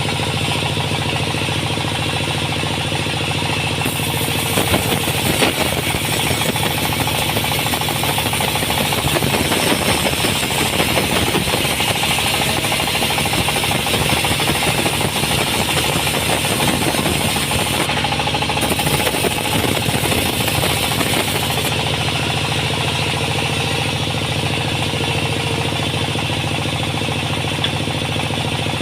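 Sawmill machinery running steadily with a low hum and a rapid rattle. From about four seconds in to about twenty-two seconds a brighter hissing layer is added, as the blade cuts through a log.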